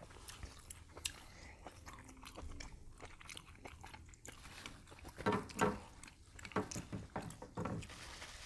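Close-miked eating sounds of king crab legs: chewing and mouth sounds with scattered small clicks, growing louder and busier a little past the middle.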